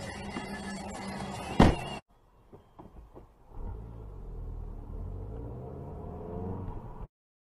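Background music with a single loud bang about one and a half seconds in. Then comes a car's engine rumbling low as heard from inside the cabin, its pitch slowly rising, until it cuts off suddenly near the end.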